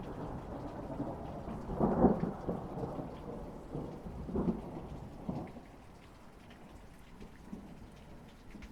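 Rain falling during a thunderstorm, with a rolling thunder rumble that swells loudest about two seconds in and again near four and a half seconds, then dies away. Only the steadier hiss of the rain is left.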